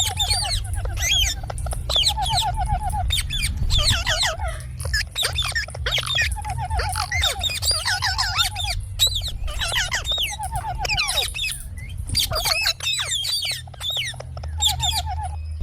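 Indian ringneck parrots calling: many quick high chirps and squawks overlapping, with a lower rattling trill that keeps coming back, over a steady low hum.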